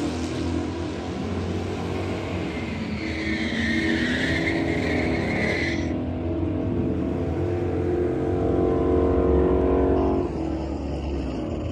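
The 2011 Camaro SS's 6.2-litre V8 with a Borla cat-back exhaust runs at the drag strip start line, among other drag cars' engines. A burnout's tyre squeal cuts in about three seconds in and stops suddenly at about six seconds.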